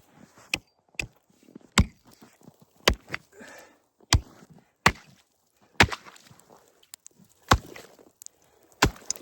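Sharp chopping strikes on lake ice, about one a second and unevenly spaced, as the new ice is tested for thickness.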